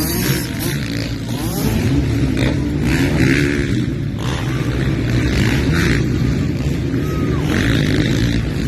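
Several motocross bikes racing on a dirt track, their engines revving up and down through the gears.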